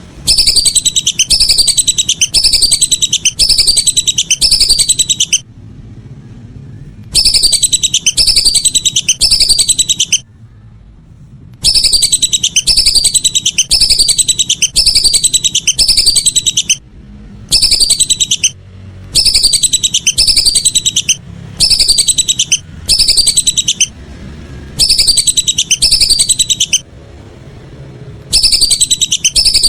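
Lesser whistling ducks (belibis) calling: high, sharply falling whistles repeated about twice a second in runs of five or six, with short pauses between runs.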